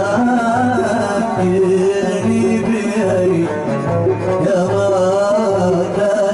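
A male singer in Middle Eastern style, his melody wavering with ornaments, over a plucked string instrument playing repeated low notes: a live Arabic jalsa song.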